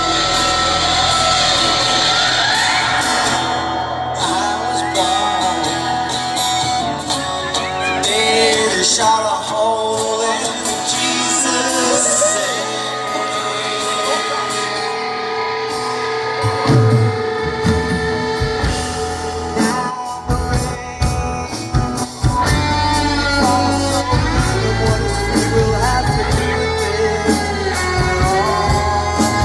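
Live rock band performance with a singing voice over sustained guitar and keyboard tones; the bass and drums come in heavier a bit over halfway through.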